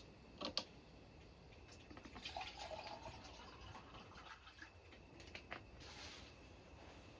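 Faint water sounds: a short trickle or pour of liquid about two seconds in, with a couple of light clicks before it and a few after.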